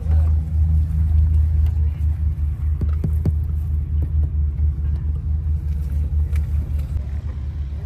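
Steady low engine rumble with a rapid flutter, and a few sharp clicks about three seconds in.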